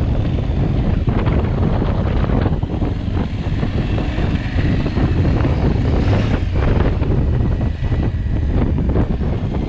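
Wind buffeting the microphone while riding an adventure motorcycle off-road, with the engine running underneath.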